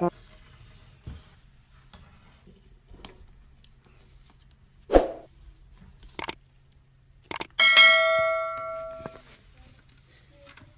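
A few light clicks and a sharp knock, then a single loud metallic ring, like a small bell being struck, that dies away over about a second and a half.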